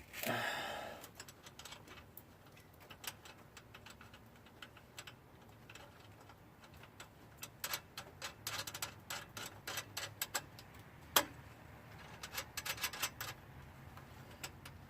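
Exhaust clamp hardware being handled and fitted by hand: light metallic clicks and rattles in scattered clusters. A short scrape comes at the start and one sharper click about eleven seconds in.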